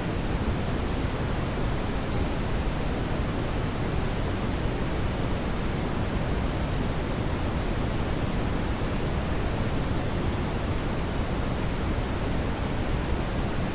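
Brown noise: a steady, even rushing hiss, heaviest in the low end and softer in the highs, unchanging throughout.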